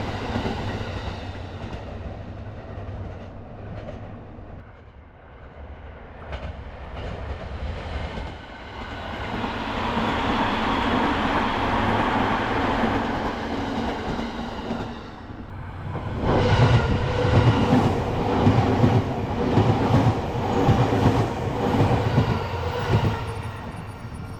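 A train on the Sobu Main Line passing a level crossing: a rushing build-up as it approaches, then from about two-thirds of the way in a loud, regular clatter of wheels over the rail joints that eases off near the end.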